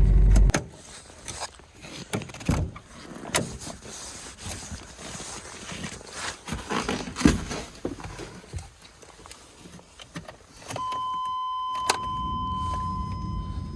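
Scattered clicks and knocks of a 1996 Chevrolet Astro van's door and keys being handled, then, about 11 s in, a steady high electronic warning tone starts with a low hum under it, as the key goes into the ignition before cranking.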